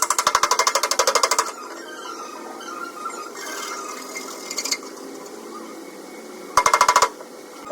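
A power tool hammering rapidly on the steel of a pickup's door panel, about a dozen sharp strikes a second with a metallic ring. It runs for about a second and a half, then stops, and comes back in a short burst near the end.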